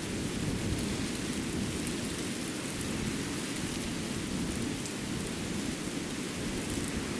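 Steady outdoor ambience of a snowy winter forest: an even rushing noise with a low rumble underneath and a few faint, short ticks.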